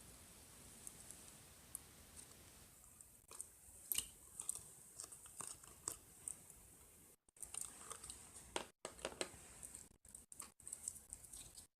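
Faint irregular clicks and crackles over a steady low hiss, with a few louder clicks about four seconds in and brief drop-outs to silence later.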